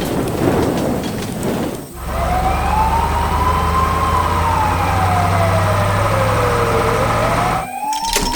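A noisy rumble for about two seconds, then an emergency-vehicle siren wailing slowly up and down in pitch over a steady engine hum. The siren breaks off briefly near the end and starts rising again.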